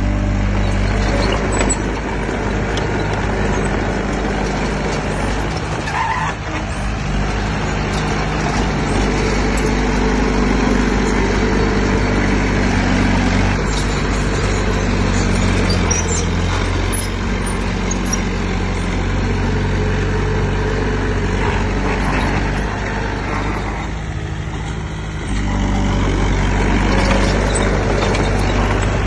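Heavy diesel engine of earthmoving machinery running under changing load, with its pitch shifting as it works. It eases off briefly near the end, then picks up and runs louder again.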